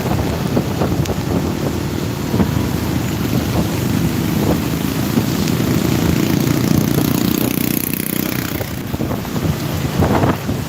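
Wind buffeting the microphone of a moving vehicle on a rain-wet road, over engine and tyre noise; a hiss swells for a couple of seconds about two-thirds of the way through.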